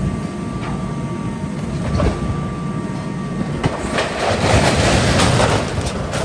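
A motor running steadily, with several sharp metal clanks and, about four seconds in, a louder stretch of scraping and rattling.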